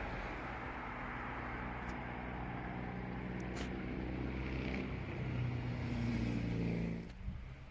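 A motor vehicle engine running steadily, rising a little in pitch, then dropping off sharply about seven seconds in.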